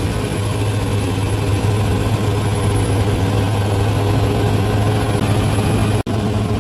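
Bulldozer's diesel engine running steadily with a deep, even hum. It cuts out for an instant near the end.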